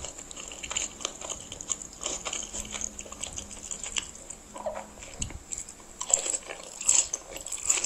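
Instant noodles being chewed up close, with many short, irregular wet mouth clicks.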